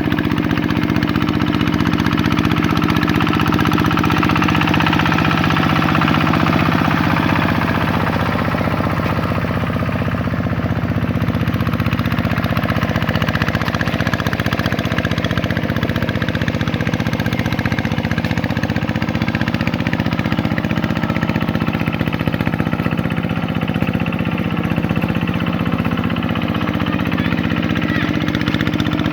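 Vikyno RV 125-2 two-wheel tractor's single-cylinder diesel engine running steadily.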